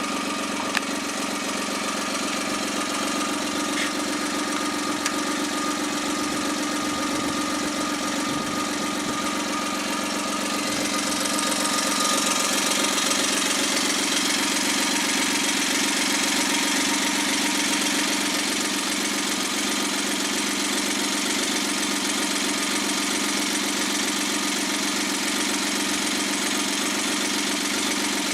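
Suzuki K6A three-cylinder turbo engine running steadily on a test run after an overhaul. About eleven seconds in it grows a little louder and hissier for several seconds, then settles back.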